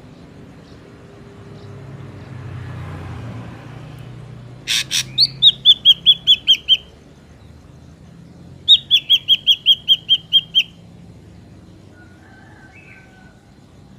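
Ashy drongo calling: two runs of about nine quick, sharp repeated notes, each run lasting about two seconds, with a pause of about two seconds between them.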